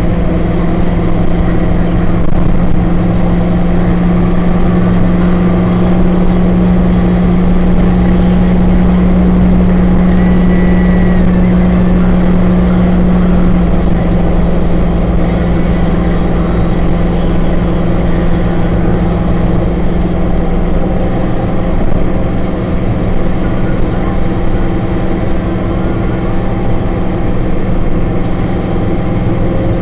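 HMMWV's V8 diesel engine running as the truck drives, a loud steady drone. Its pitch drops slightly about halfway through and shifts again about two-thirds of the way in.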